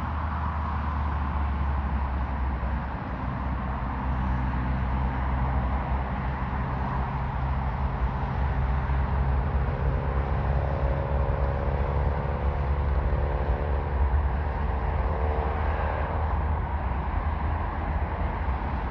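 Jet airliner engines rumbling steadily, with a faint engine whine that wavers slightly through the middle.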